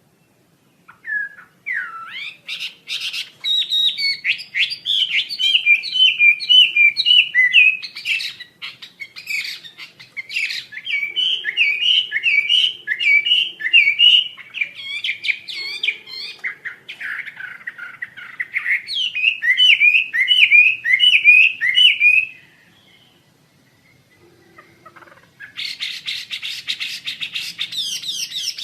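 A Wambi Asia songbird singing: long runs of rapid, short chirping notes, broken by a pause of about three seconds, after which a dense run of very fast notes starts near the end.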